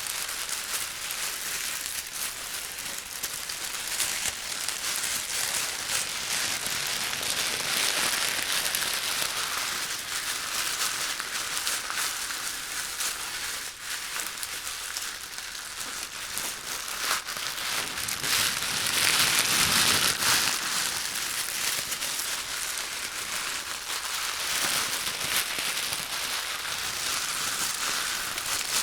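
Close-miked, continuous fine crackling and crinkling of ASMR trigger sounds, louder for a moment about two-thirds of the way through.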